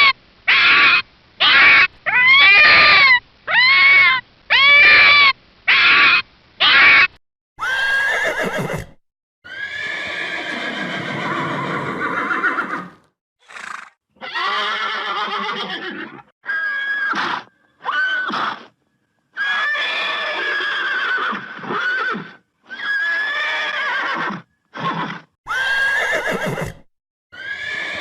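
Horses neighing and whinnying, one long wavering call after another with short pauses between them. This follows a run of about ten short, high, rising-and-falling animal yelps in the first seven seconds.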